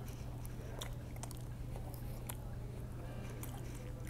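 A man chewing a bite of Big Mac, with soft irregular mouth clicks and wet crackles, over a steady low hum.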